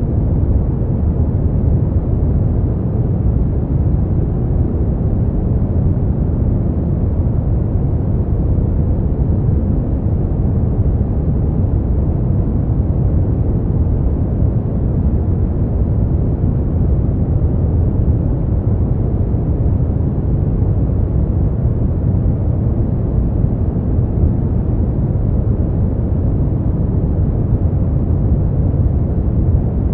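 Steady brown noise: an unbroken, even rumbling hiss with most of its energy in the deep lows, falling away toward the highs.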